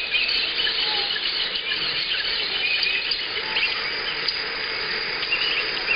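A dense chorus of many birds calling at once: a steady high-pitched wash of chattering and squeaking, with single chirps and short whistles standing out over it.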